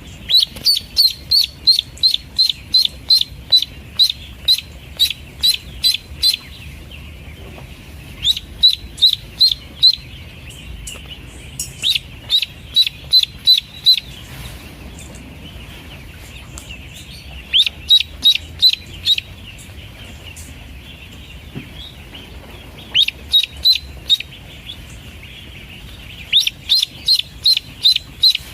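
Pekin duckling peeping: runs of short, high-pitched peeps, about three a second, in bursts of a few seconds with pauses between them.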